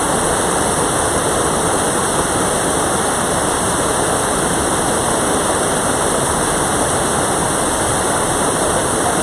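Mountain valley stream rushing steadily, its flow high and strong after the previous day's rain.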